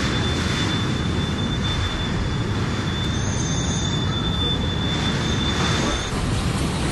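Strong tornado wind roaring in a steady low rumble, buffeting the microphone. A thin steady whistle runs through most of it and stops about six seconds in.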